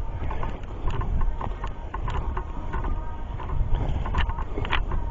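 Hikers' footsteps on a dirt trail while walking uphill, irregular crunches and clicks over a continuous low rumble on the microphone.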